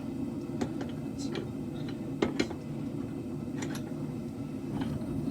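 Propane forge burner running with a steady low rush, its propane tank nearly empty. A few light clicks and taps sound over it.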